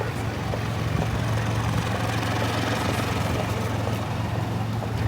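City street traffic noise with a vehicle engine idling, giving a steady low hum under an even wash of noise.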